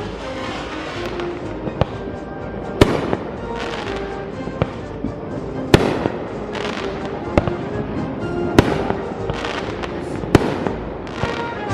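Fireworks display: sharp booming bursts going off every second or two, about eight in all, over background music.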